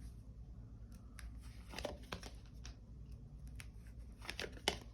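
Faint rustling and a few light clicks of tarot cards being handled on a table.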